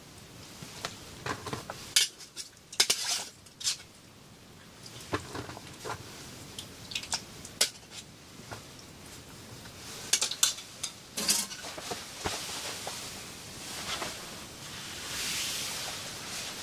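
Pots, dishes and utensils clinking and knocking in irregular strikes, with a steady hiss swelling in the last few seconds.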